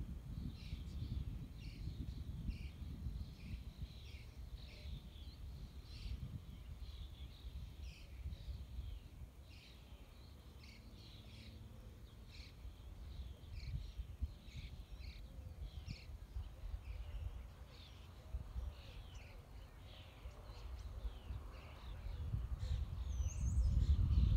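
Small birds chirping over and over in short high notes, with a low wind rumble on the microphone that grows louder near the end.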